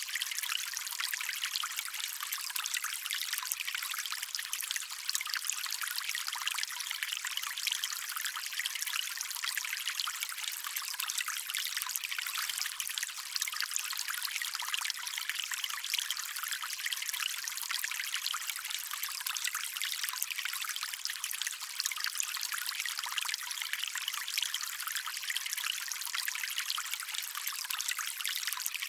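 Small stream trickling: a steady, unbroken wash of running water, bright and hissy with no deep rumble.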